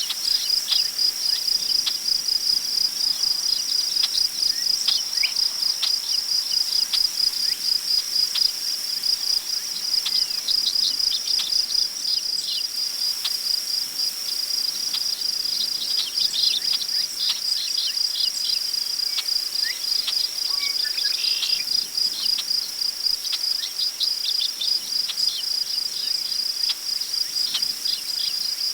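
Crickets chirping in a steady, fast pulsing trill. A few short bird chirps come through now and then, one a little louder about three-quarters of the way in.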